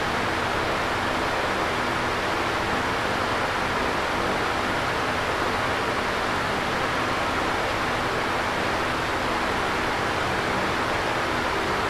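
Electric fan running steadily: an even airy whoosh with a faint low hum underneath.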